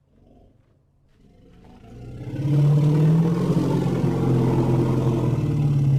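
Elephant calling: one long, low, rumbling call that swells up over about two seconds and then holds loud.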